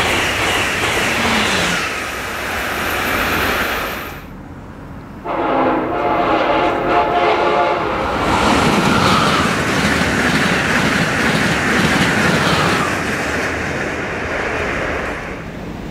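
Amtrak Acela high-speed trainset rushing past at speed, its noise falling away within the first few seconds. About five seconds in, a train horn sounds one steady blast of a little under three seconds, followed by the loud rush of a fast train going by on the tracks.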